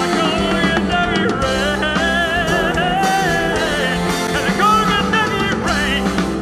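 Live rock band of drums, bass, electric guitars and keyboards playing the closing bars of a ballad, with long held vocal notes wavering in vibrato over it.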